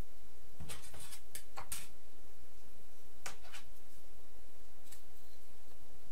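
A few light clicks and taps: a quick cluster of four or five about a second in, two more a little after three seconds, and a faint one near five seconds.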